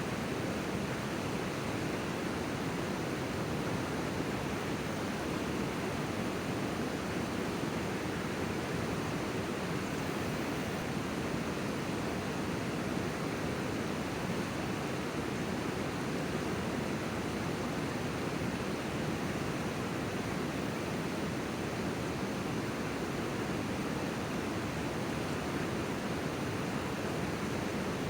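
River water rushing steadily, an even noise without breaks.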